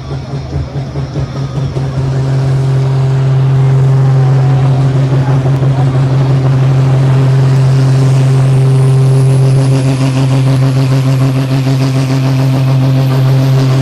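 Super Sport pulling tractor's diesel engine running hard at high revs under load during a pull. It grows louder about two seconds in and then holds steady, with a high whine climbing in pitch over the second half.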